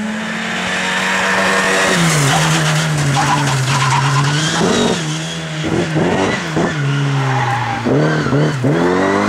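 Rally car engine running hard at high revs. The pitch drops about two seconds in, then falls and rises several times in quick succession as the car is worked through the stage, with tyre squeal.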